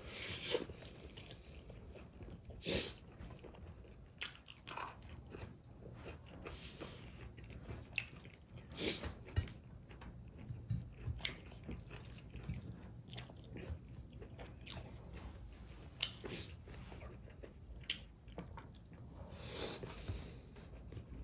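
A person chewing and biting food close to the microphone. Crisp crunches and mouth clicks come at irregular intervals.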